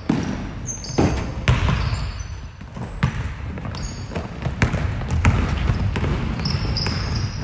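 Basketball dribbling on a hardwood gym floor, irregular bounces and thuds over a low rumble of gym noise, with short high squeaks near the end.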